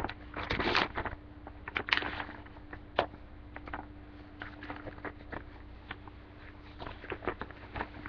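Plastic bag of loose-leaf chewing tobacco crinkling and rustling as it is opened and a chew is pulled out, with a sharp click about three seconds in and smaller scattered crackles after, over a faint steady hum.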